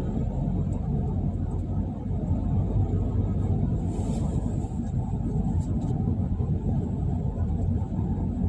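Steady low rumble of a car on the move, road and engine noise, with a brief hiss about four seconds in.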